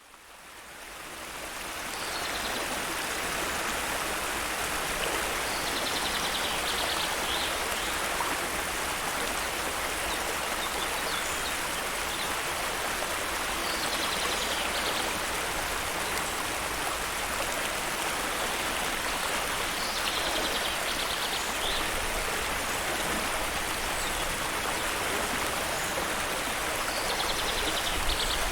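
Waterfall rushing in a steady wash of water noise, fading in over the first couple of seconds. A short, high, fast trill comes through it every seven seconds or so.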